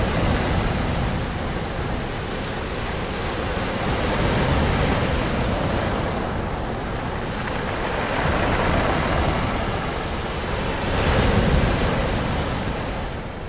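Ocean waves breaking on a shore, a continuous rushing wash that swells and recedes about every four seconds, with wind on the microphone.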